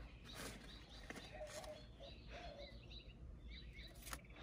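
Faint birdsong, small birds chirping in short repeated notes, with a few sharp rustles and clicks of tomato vine and leaves being handled, the loudest click about four seconds in.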